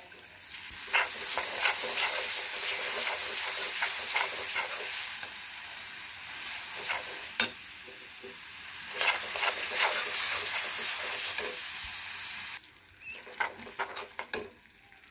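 Spice paste and tomato masala sizzling in hot oil in a steel kadhai, stirred with a perforated steel spatula that scrapes and clicks against the pan. The sizzle cuts off suddenly near the end, leaving a few faint scrapes.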